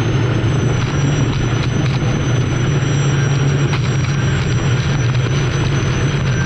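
Unlimited hydroplane's turbine engine running steadily, heard from onboard the boat: a loud, even rumble with a thin, constant high whine over it.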